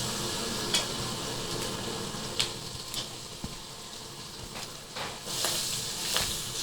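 Onion, green chillies and whole spices (cinnamon, cloves) sizzling in hot oil in a pan, with a spoon stirring and clinking against the pan several times.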